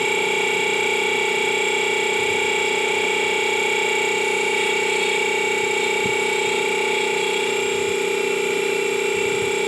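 Air conditioner compressor running on an inverter drive: a steady hum with a high whine made of a few fixed tones, unchanging throughout.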